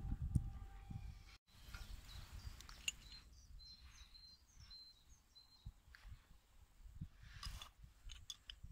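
Faint outdoor background with a low rumble on the microphone; in the middle a small bird gives a run of short, high, repeated chirps, and a few light clicks come near the end.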